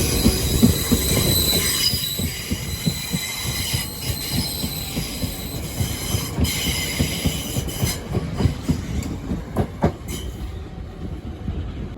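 A train running through the station, its wheels squealing in several steady high tones over a low rumble and knocking from the rails. The squeal fades out about two-thirds of the way through and the rumble slowly dies down.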